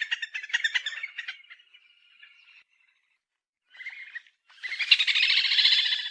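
Little grebe calling: quick chattering notes, then a short trill that fades out. After a gap of about a second and a short burst, a long, fast whinnying trill starts about four and a half seconds in.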